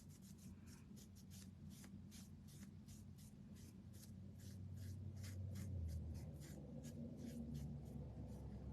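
Faint, quick scratchy strokes rubbing over a painted wooden craft piece, about three a second, as burnt umber paint is brushed or wiped on. A low hum swells about halfway through.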